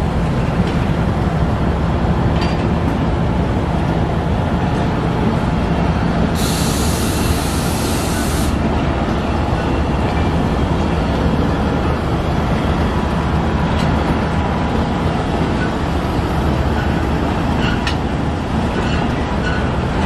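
Pakistan Railways Fareed Express coaches rolling steadily past, a continuous deep rumble of wheels on rail with a few faint clicks. About six seconds in comes a sharp hiss of air lasting about two seconds.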